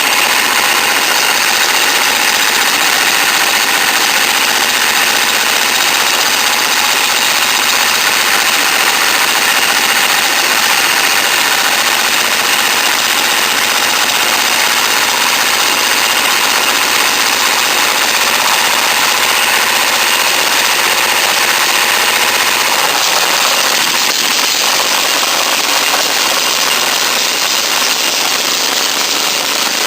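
Small go-kart engine running steadily.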